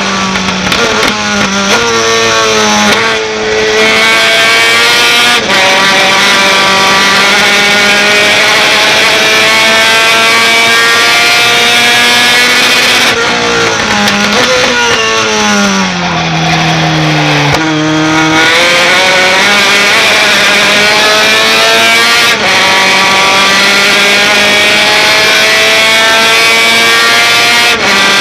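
A racing pickup truck's engine at full throttle, climbing steadily in pitch through long stretches. The pitch drops sharply about 2 seconds in and again twice around the middle, as the driver lifts off and changes down for corners.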